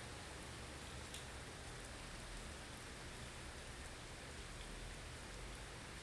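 Blizzard ambience: a steady hiss of wind-driven snow over a low rumble, with a faint tick about a second in.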